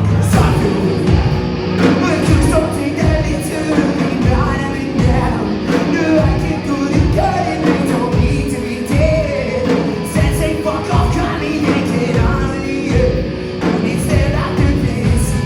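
Live rock band playing loudly, a singer's voice over guitars and a steady drum beat.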